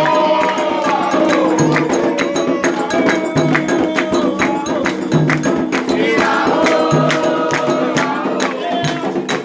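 Candomblé ritual music: voices singing a chant together over dense, fast hand-drum and percussion strokes.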